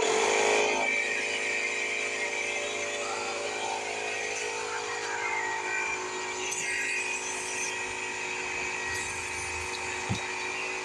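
Electric air compressor running steadily with a motor hum, used to inflate a tire. It starts abruptly at the beginning.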